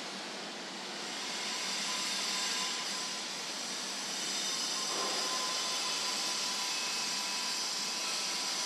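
Steady rushing hiss of transport noise, like a vehicle or train in motion, with a faint steady whine running through it and a slight swell in level.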